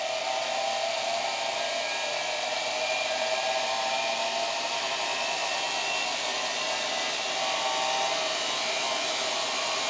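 Brushed vacuum cleaner motor fed about 30 volts through a variac, running with a steady whine and brush hiss as it belt-drives a heavy ceiling fan at low speed.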